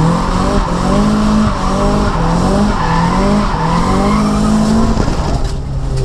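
Nissan S14's SR20DET turbo four-cylinder revving up and falling back again and again while drifting, with tyre squeal; near the end the revs drop away to a steady low tone.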